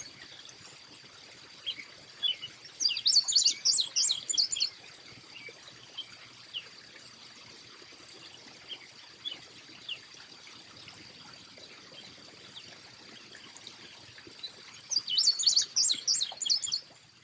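Small songbirds calling in a backyard: two bursts of rapid, high chirps, one about three seconds in and one near the end, with scattered single chirps between. A faint steady high tone runs underneath.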